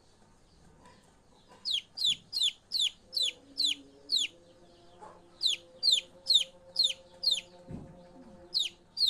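A bird chirping in runs of short, high, falling notes, about three a second, with short pauses between the runs.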